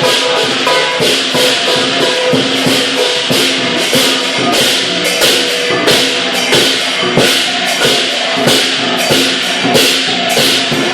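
Lion dance percussion ensemble playing: hand cymbals clashing about twice a second over a big drum and a ringing gong, in a steady driving rhythm.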